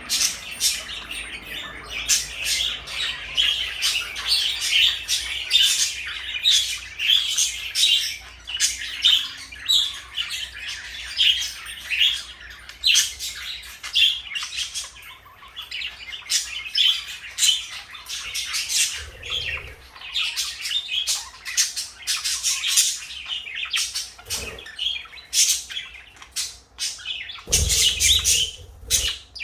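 Pet parakeets chattering and chirping without a break, a quick string of short squawks and tweets. Near the end there is a brief thump.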